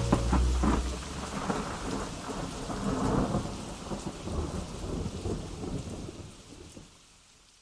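Rain with rolling thunder, a recorded storm effect closing out a hip-hop track, fading out steadily toward the end. The song's last bass notes die away in the first second.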